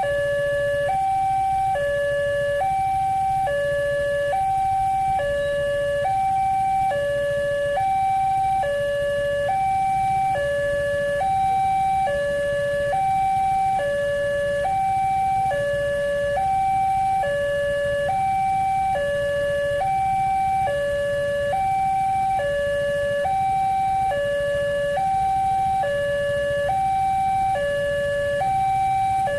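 Railway level-crossing warning alarm sounding continuously: an electronic two-tone signal alternating between a higher and a lower pitch about once a second, warning that a train is approaching and the barrier is closing or closed.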